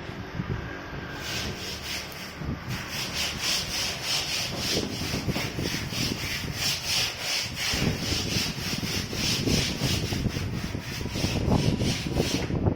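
Quick, even back-and-forth strokes of a hand tool scraping across a hard surface, starting about a second in and keeping a steady rhythm.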